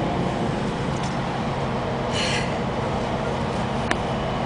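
Steady rumble of a moving Amtrak passenger train heard from inside the car, with a short hiss about two seconds in and a single sharp click near the end.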